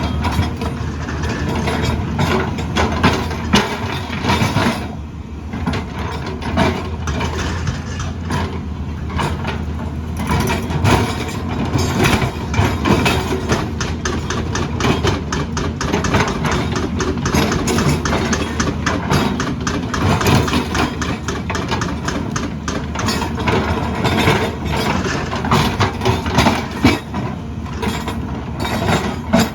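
Heavy earthmoving machine's diesel engine running steadily, with frequent irregular clatter and knocks of rock and metal over it.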